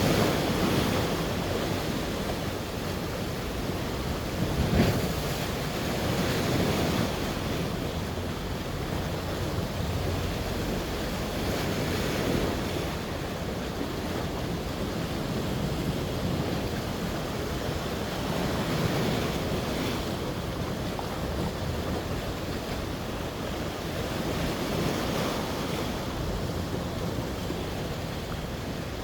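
Sea waves washing onto the shore, swelling and ebbing every several seconds, with a louder surge about five seconds in. Wind buffets the microphone.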